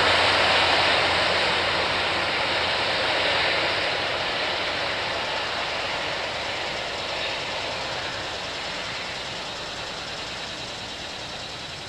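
Diesel-hauled Long Island Rail Road passenger train rolling away along the track, its rumble and wheel noise fading steadily. A low engine hum dies out in the first few seconds.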